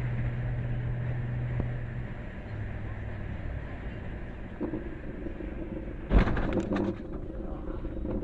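Steady low engine and road hum of a vehicle heard from inside the cabin, with a short louder noise about six seconds in.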